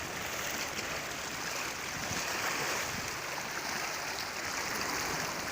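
Sea waves washing steadily against the shore at high tide, an even rush of water with no single breaker standing out.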